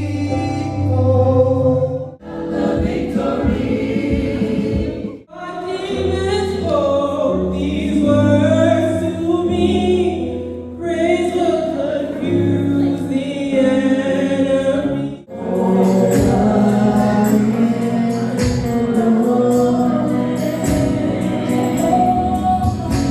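Choir singing a gospel song, heard as several short segments that break off abruptly about 2, 5 and 15 seconds in.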